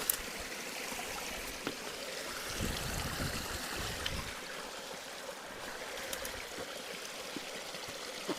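Storm runoff rushing steadily out of a culvert, with a few small knocks and a brief low rumble about three seconds in.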